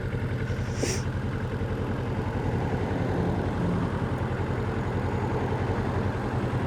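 Kawasaki Vulcan 650's parallel-twin engine running steadily, a fast even exhaust pulse, with a short hiss about a second in.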